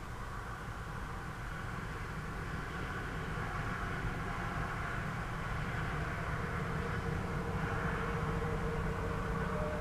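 Diesel freight locomotives, a GE Dash 9-44CW leading, approaching as a low rumble that grows steadily louder, with a steady hum coming in near the end.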